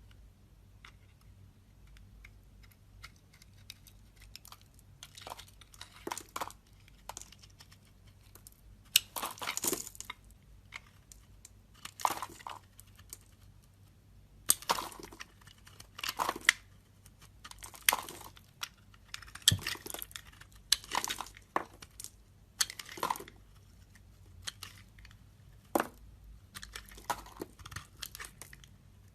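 Bar of soap being carved with a knife: irregular crisp scraping and crunching strokes, faint and sparse for the first few seconds, then louder and more frequent.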